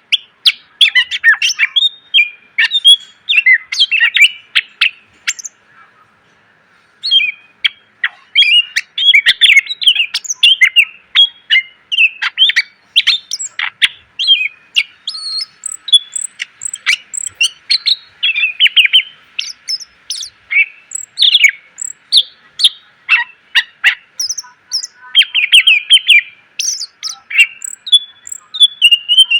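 Cucak ijo (green leafbird) singing a loud, rapid, varied song of chirps, trills and short whistled phrases, packed with fill-in phrases ('isian'). It breaks off for about a second and a half some six seconds in, then carries on.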